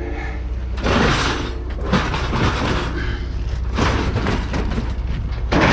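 Heavy scrap metal, old appliances among it, banging and crashing as it is unloaded onto a pile, several bangs about a second apart, over a steady low engine hum.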